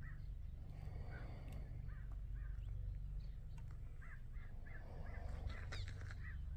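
Cliff swallows calling with short squeaky chirps, a quick run of them about four seconds in, over a steady low rumble.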